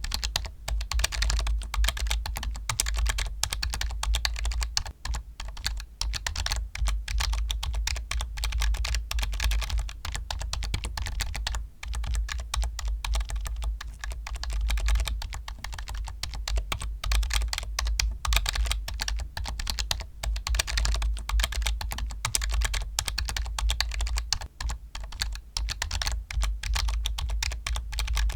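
Computer keyboard being typed on continuously, a fast, dense stream of key clicks with a brief pause about twelve seconds in.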